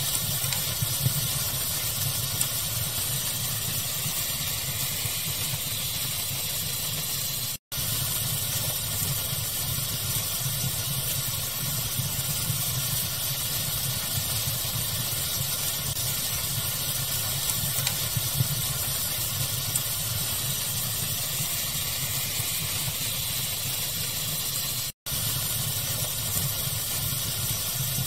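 Steady pink-noise hiss blended with a fire's crackle, with a few small sharp pops over the even rushing sound. Twice the sound cuts out completely for a split second.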